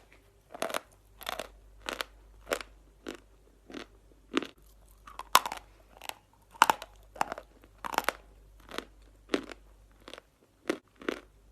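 Natural chalk being bitten and chewed close to the microphone: a steady run of sharp, dry crunches, about three every two seconds.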